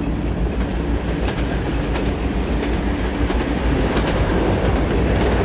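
Freight train rolling along the track: a steady heavy rumble with repeated sharp clicks of the wheels passing over rail joints.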